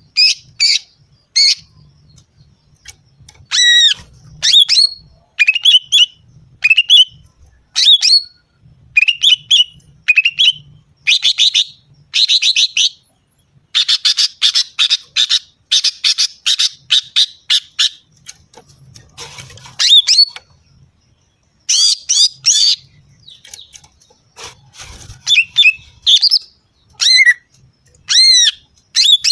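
Female green leafbird (cucak ijo) calling: short sharp chirps and downward-swept notes, broken by runs of rapid chattering notes, in bursts with brief gaps between them. This is the female call used as a lure to rouse males.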